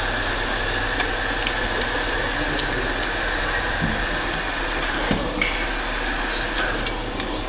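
Steady mechanical hum of workshop machinery, with a few light clinks of tools or metal parts.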